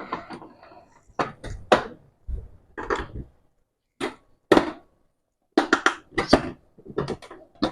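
Repeated knocks and clatters as a water heater's top cover is pushed and tapped down onto its casing, with a quick flurry of knocks about six seconds in. The cover is hard to seat because of the cotton insulation packed beneath it.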